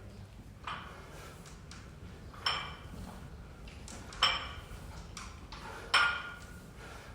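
Metal gym weights clanking in a steady rhythm during workout reps: four sharp clanks, each with a short ring, about one every second and three-quarters, the first one faint.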